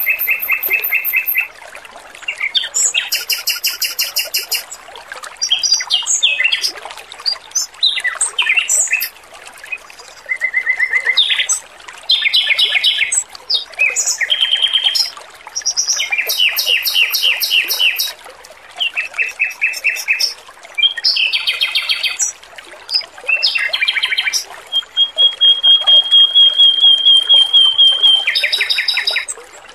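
Male Pekin robin (red-billed leiothrix) singing in rapid trilled phrases separated by short pauses, over a steady trickle of water. Near the end one long fast trill holds a single pitch.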